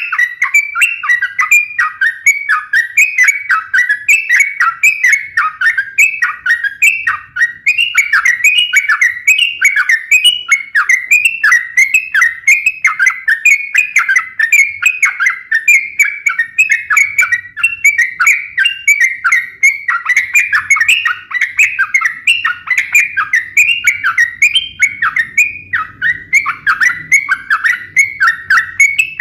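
Yellow-vented bulbul (trucukan) singing continuously in lively, full song: a dense, unbroken stream of quick bubbly chirps, several notes a second.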